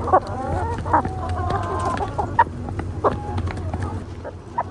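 A flock of free-range Cambodian village chickens clucking, with many short calls overlapping and a few sharp ticks among them.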